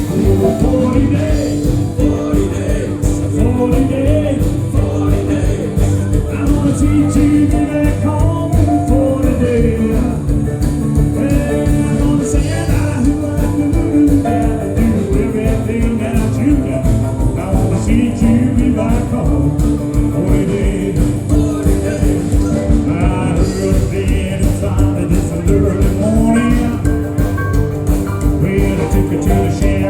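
A band playing 1950s-style rock and roll live, with guitar and a steady beat.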